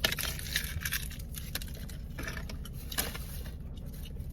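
Rustling and crinkling of a plastic bag as trash is handled and dropped into it, with a sharp knock at the start and another about three seconds in.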